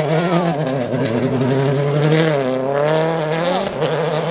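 Rally car engine revving hard. Its pitch falls and climbs again a few times as the car shifts and accelerates.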